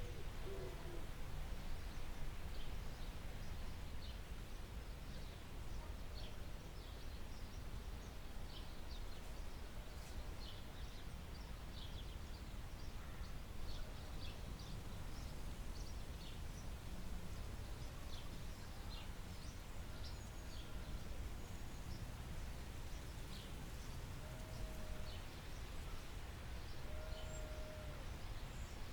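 Forest birdsong: many short, high chirps scattered throughout, with a few short, low, steady-pitched calls in the second half, over a steady low rumble.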